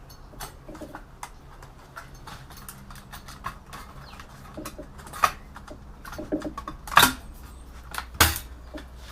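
Irregular small clicks, taps and scrapes of plastic and metal parts of a Dell all-in-one PC being handled and pulled apart during dismantling, with three louder sharp knocks a little past halfway and near the end.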